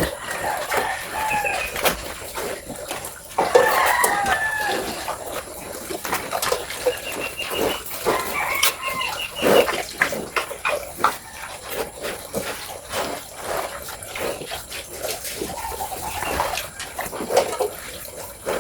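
Chickens calling, with a rooster crowing a few times, over a run of irregular short clicks and knocks.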